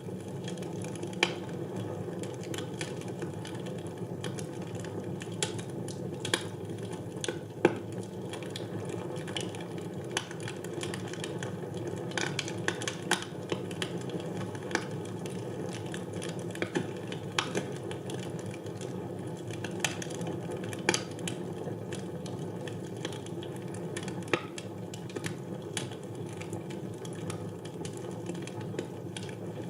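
Wood fire burning in a fireplace: a steady low rush of flame, with irregular crackles and a few louder sharp pops.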